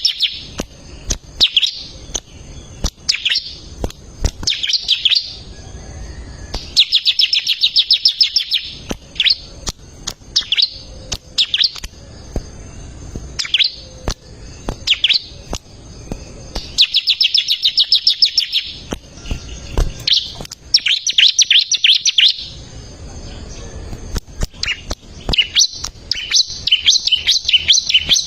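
A prinia (ciblek) singing: rapid high chirping trills lasting a second or two, repeated again and again with sharp single chirps in between.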